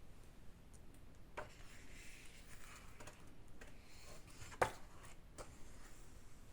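Quiet handling of art supplies and paper: soft rustling with a few light taps, the sharpest about four and a half seconds in.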